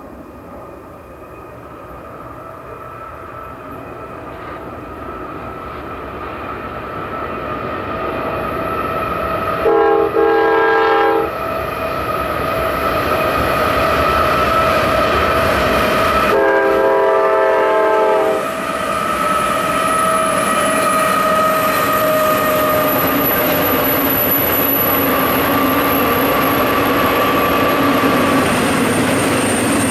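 Long freight train rolling past, its wheel-on-rail noise growing louder and then holding steady. A locomotive's multi-chime air horn sounds two blasts, a short one about ten seconds in and a longer one about six seconds later.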